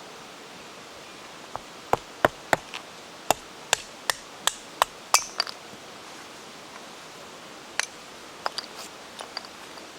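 A run of sharp knocks, about three a second for a few seconds, then a few scattered ones near the end.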